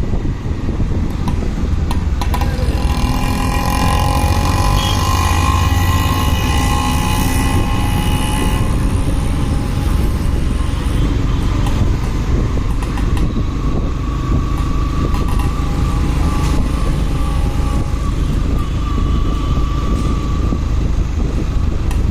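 Motorcycle on the move: a steady low rumble of engine and wind noise, with a whine that shifts slowly in pitch through the first half.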